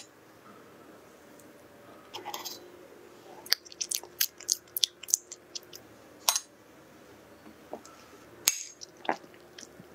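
Close-miked mouth sounds of someone eating soft baked cheesecake: a string of short, wet clicks and smacks from chewing, coming in two clusters, with a soft rustle just before the first.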